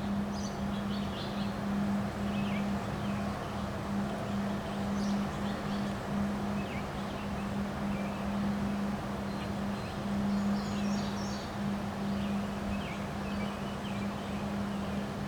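Steady gusty wind noise, with a steady low hum throughout and scattered short high bird chirps.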